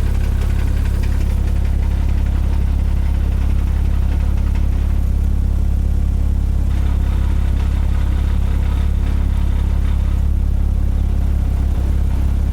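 Porsche Cayman S M97 flat-six idling warm with the AC on, with a fast clicking chatter over the idle that stops about a second and a half in as the clutch is pressed, comes back about seven seconds in as the clutch is let out, and stops again about ten seconds in when the AC is switched off. The owner traced the clicking to a failing clutch throwout bearing.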